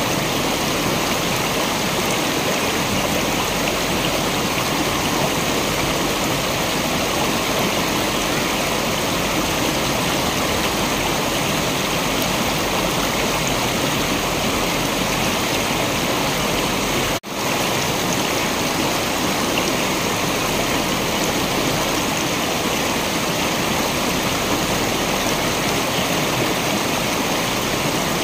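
Steady rush of a waterfall, an even wash of falling water with no change in level. It cuts out for an instant about seventeen seconds in, then carries on as before.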